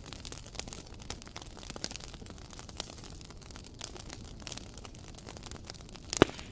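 Wood fire crackling: irregular small snaps and pops over a low steady hiss, with one sharper, louder pop about six seconds in.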